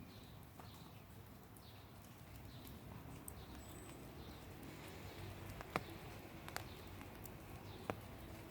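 Quiet outdoor garden ambience with faint scattered bird chirps and three sharp clicks in the second half.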